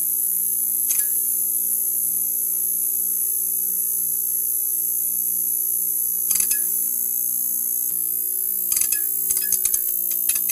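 Neon sign buzzing: a steady electrical hum with a constant high hiss above it. Sharp crackling clicks come about a second in, again around six seconds in, and in a quick flurry near the end.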